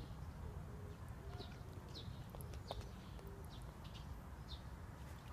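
Faint outdoor ambience: a steady low rumble with scattered short, high chirps every half second or so.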